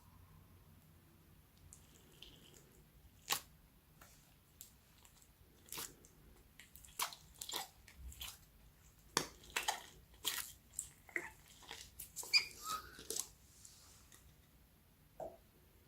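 Slime being mixed and squished, making irregular sticky pops and clicks, thickest through the middle stretch, with one last pop near the end.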